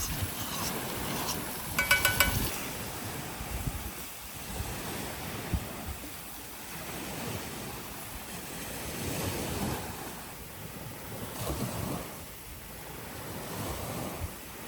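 Sea waves washing on a beach, swelling and ebbing, with wind on the microphone. About two seconds in there is a short burst of clinking.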